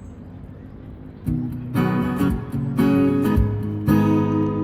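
Acoustic guitar strummed live, starting about a second in with a few ringing chords, the louder strokes coming roughly once a second.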